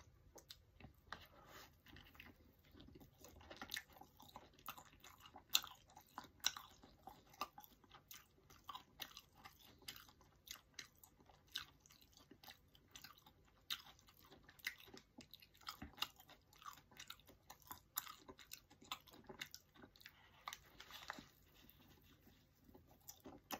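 A person chewing a toasted bread sandwich with the mouth close: quiet, irregular crunches and wet mouth clicks, with another bite taken near the end.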